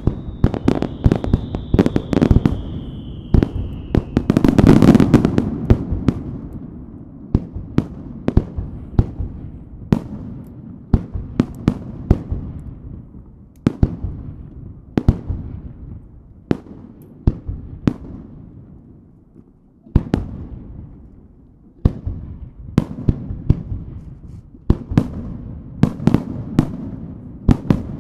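Fireworks display: aerial shells launching and bursting in quick succession, sharp bangs with crackle, the loudest and deepest boom about five seconds in. A high tone slowly falls over the first few seconds, and there is a short lull shortly before a fresh bang about two-thirds of the way through.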